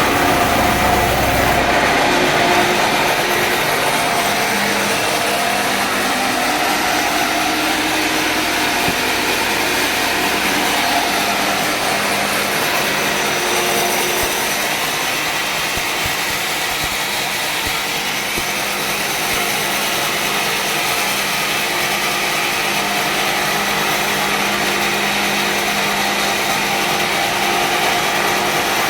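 Sawmill running steadily, its blade cutting through a mahogany log. A low engine rumble drops away about two seconds in.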